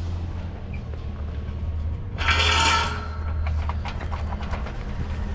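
A steady low mechanical hum with light metallic clicks and knocks, and a short hiss about two seconds in.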